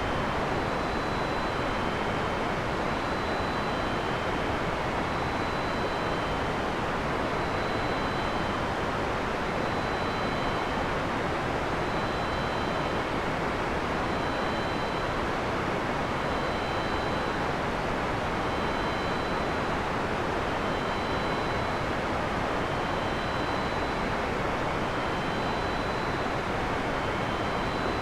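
Steady heavy rain, an even unbroken hiss with no thunder, with faint short high tones repeating throughout at a few alternating pitches.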